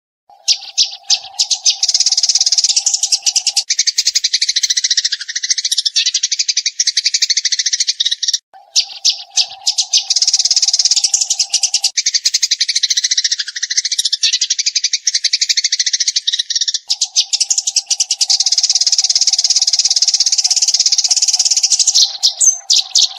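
Eurasian tree sparrows chirping in rapid, continuous strings, in three long bouts with brief breaks at about 8 and 17 seconds in. A steady low tone runs underneath in three stretches.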